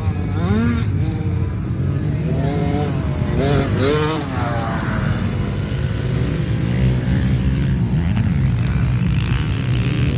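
65cc two-stroke motocross bike engine revving up and down repeatedly as it is ridden, over a steady low drone, with the revs rising and falling most often in the first half.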